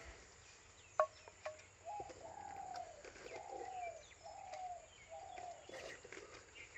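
A bird calling outdoors: about five repeated cooing notes, each arching up then falling in pitch, spaced under a second apart. A couple of sharp light knocks come about a second in.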